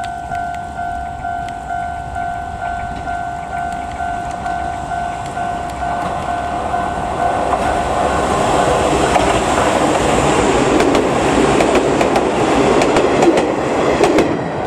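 A Japanese level-crossing bell rings about twice a second while an Izuhakone Railway 5000-series electric commuter train approaches. The bell is then drowned out by the train's running noise and wheels clacking over the rail joints, which grow loud as the train passes close by.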